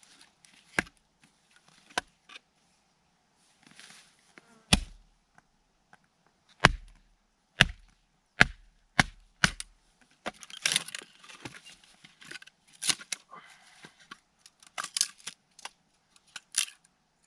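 Axe chopping firewood: a few light taps, then a run of heavy blows about a second apart, then quicker, lighter cracking strikes as the wood splits into pieces.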